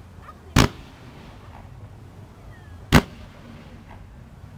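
Fireworks going off: two sharp, loud bangs about two and a half seconds apart.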